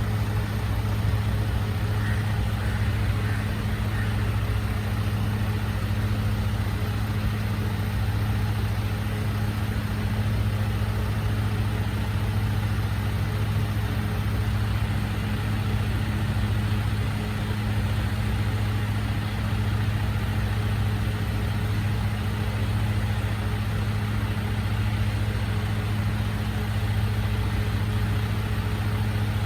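Recycling truck's engine idling steadily with an even low hum.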